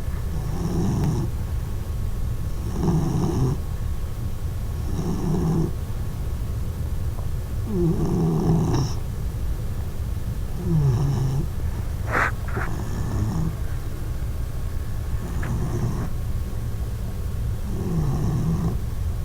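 Four-month-old puppy snoring in her sleep, one snore roughly every two to three seconds, with a brief sharp sound about twelve seconds in.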